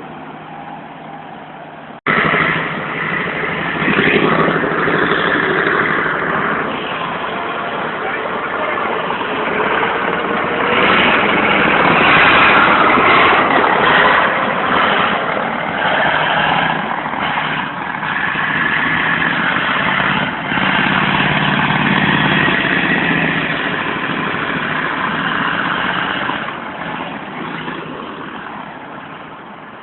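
Diesel engine of a tracked armoured vehicle running, with a dense noise that swells and eases; the sound steps up suddenly about two seconds in.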